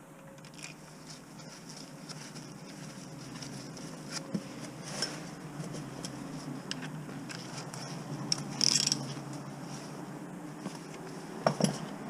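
Scattered light metallic clinks and knocks, like tools being handled during car repair work, over a steady low hum. There is a short hiss about nine seconds in and a pair of louder knocks near the end.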